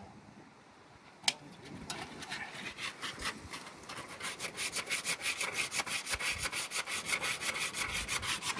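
Hand scrubbing or brushing a hard surface: after a single click, rapid back-and-forth rubbing strokes start about two seconds in and settle into a fast, steady rhythm of several strokes a second.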